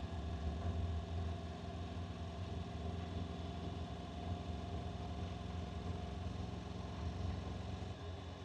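Honda NC750X motorcycle's parallel-twin engine running at a steady pace, a low drone with no change in pitch.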